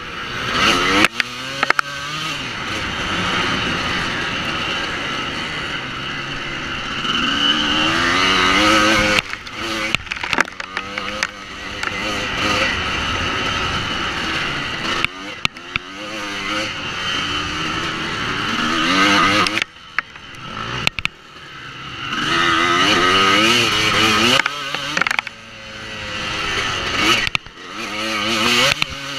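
Honda CR250 two-stroke motocross bike being ridden hard: the engine revs up again and again with rising pitch, dropping away sharply each time the throttle is shut, with scattered sharp knocks.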